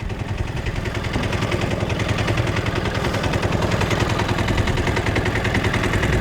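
Small fishing boat's engine running under way, a rapid even chugging that grows slightly louder.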